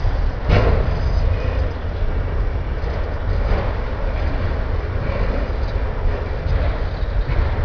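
Autorack freight cars rolling slowly past on the rails, a steady low rumble of the wheels, with one sharp knock about half a second in.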